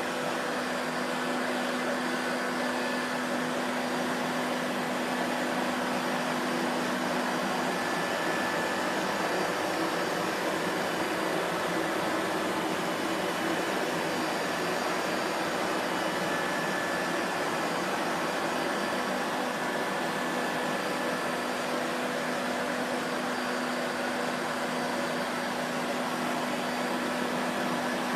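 Vacuum cleaner running steadily: an even rush of air with a motor hum and whine held at constant pitch and loudness. A low hum in the mix fades for a while in the middle and returns near the end.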